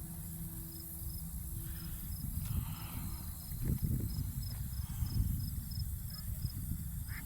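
Insects chirping in a steady run of short, high pulses, about two or three a second, over a low rumble on the microphone with a couple of louder bumps.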